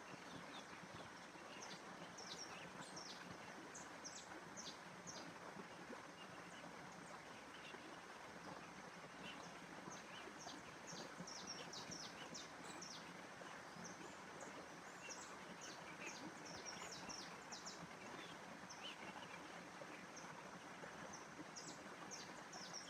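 Faint nature ambience: many small birds chirping in short, high calls, scattered and overlapping, over a steady soft background hiss.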